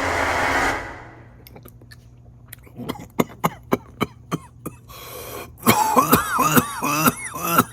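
A man coughing and clearing his throat several times in the second half, after a run of short mouth clicks: his reaction to a dose of super-hot chile tincture. A steady rushing noise cuts off about a second in.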